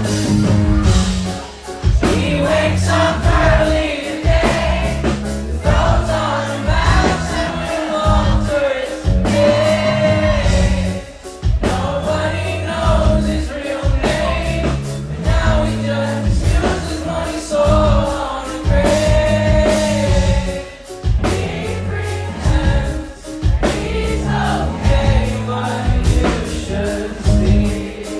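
Live band music: a wavering sung melody over repeating low bass notes.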